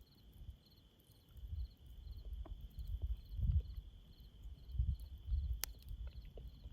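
Crickets chirping steadily, about two to three chirps a second over a continuous high trill, with irregular low thuds and rumbles close to the microphone, likely chewing of roasted prickly pear cactus, and one sharp click about five and a half seconds in.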